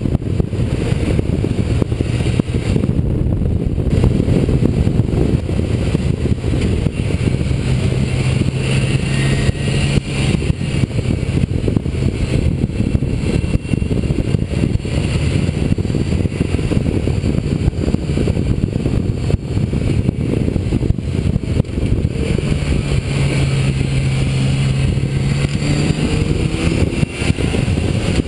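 Motorcycle under way at road speed, heavy wind rumble on the camera's microphone over the engine. The engine note comes through clearer twice, the second time climbing a little as the rider accelerates.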